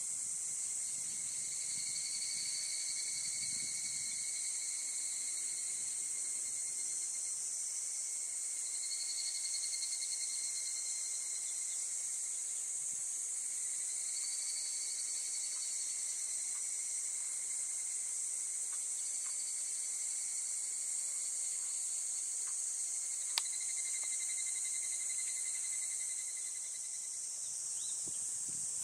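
Steady outdoor insect chorus: a constant high, shrill drone, with a lower held note that sounds for a few seconds at a time and falls silent several times. A single sharp click about two-thirds of the way through.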